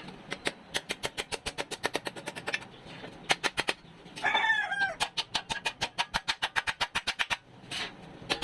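A rooster crows briefly in the middle, between two runs of rapid sharp taps, about seven a second.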